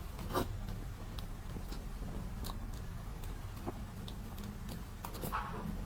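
Soft, close-up chewing and small scattered mouth clicks of someone eating a soft blueberry dessert.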